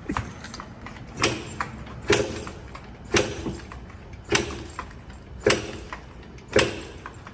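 Yamaha Banshee twin-cylinder two-stroke being kick-started over and over, about one sharp clack-and-turnover a second, some seven times. The engine never fires, a sign of the no-start after the bike has been sitting.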